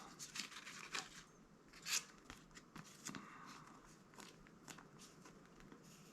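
Faint taps, clicks and soft sliding of Magic: The Gathering cards being handled and set down, with the sharpest tap about two seconds in.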